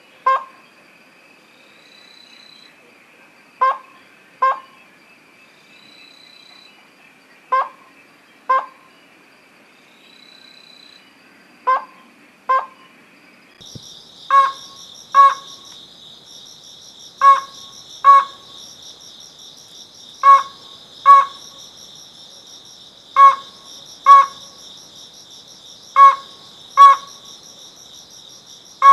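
Slaty-legged crake calling: short, sharp double notes repeated every three to four seconds. A steady hum of crickets or other insects runs underneath and rises higher about halfway through.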